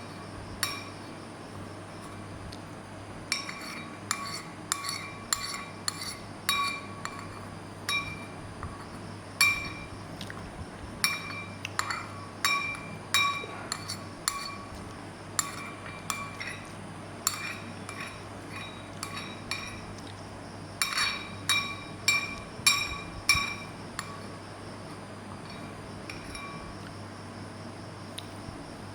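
A utensil clinking again and again against a ringing dish, in irregular bunches of sharp strikes that each ring briefly at the same pitch, with the busiest run around the last third.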